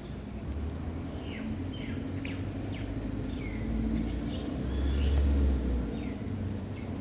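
Bird chirping: short, quick downward-sweeping calls repeated several times, over a low rumble that swells about five seconds in.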